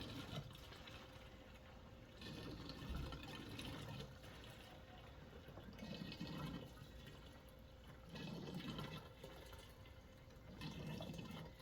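Gasoline being poured from a gas can into a lawn tractor's empty fuel tank: a faint liquid pouring and filling sound that swells and fades in waves every two or three seconds.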